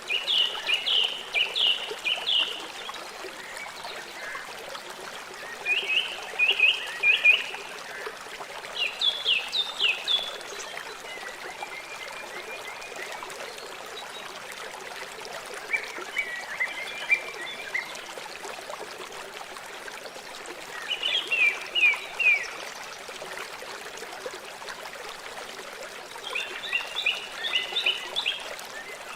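River water flowing with a steady rush. Over it, an animal calls in short series of quick, high chirps, a group every few seconds.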